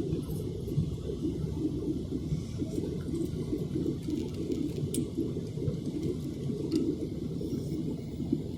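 Steady low rumble of an airliner's jet engines and rushing air, heard from inside the passenger cabin, with a few faint ticks.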